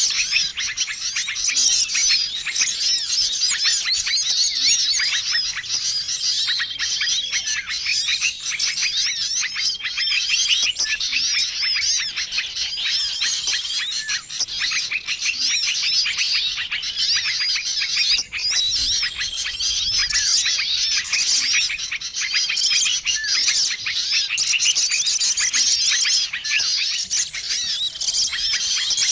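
Dense, busy chorus of many small songbirds chirping and calling at once, a mixed-species bird-lure recording used to draw in wild small birds. A short level whistled note recurs every few seconds through the chatter.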